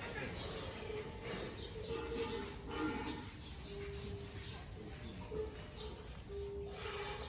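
Cricket chirping: a steady, high-pitched pulsed trill of about four chirps a second, pausing briefly about a second in.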